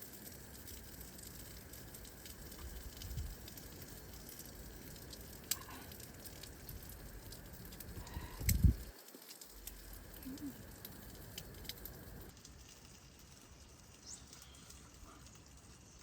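Wind buffeting the microphone in a low, uneven rumble, with scattered sharp clicks and crackles. Two dull thumps stand out, the louder one just past halfway.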